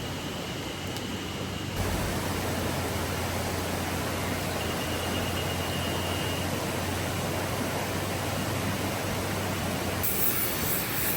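River water flowing, a steady rushing sound, with a sudden change in its tone about two seconds in and again near the end.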